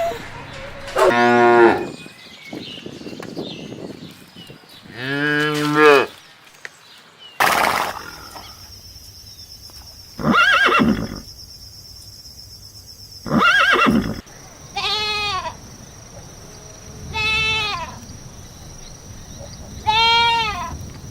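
Farm animals calling in a series of separate short calls, each under a second with pauses between them. The later calls are higher-pitched and waver, and the sound cuts abruptly twice, as where clips are joined.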